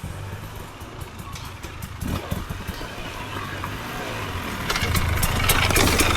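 Off-road vehicle engine running at a steady low idle, growing louder about five seconds in, with sharp clicking over it.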